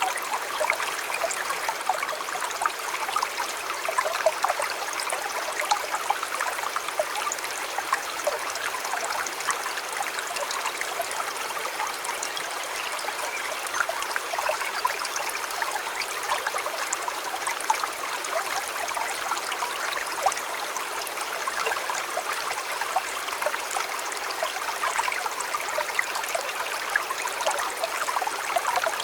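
River water flowing steadily, a constant babble dotted with many small splashes and trickles.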